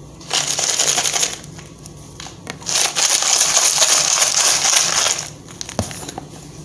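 Loud dry crunching in two stretches, about a second and then about two and a half seconds long, with a single knock near the end.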